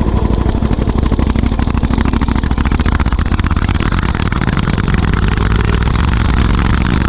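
Royal Enfield Interceptor 650's parallel-twin engine running through an aftermarket Motowings performance exhaust, a loud pulsing exhaust note. The pulses are crisper in the first couple of seconds, then settle into a steadier run.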